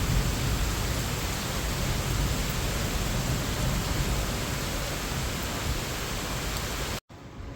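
Steady rain falling on leaves, an even hiss. It cuts off abruptly about seven seconds in, and a much quieter outdoor ambience follows.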